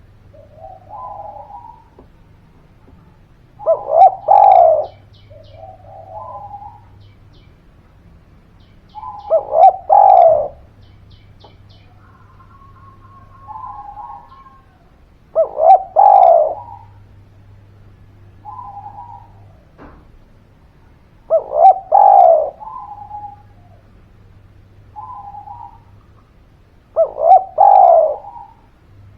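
Spotted dove (derkuku/tekukur) cooing: a loud phrase of two short notes and a longer falling coo, repeated five times about every six seconds, with softer coos in between.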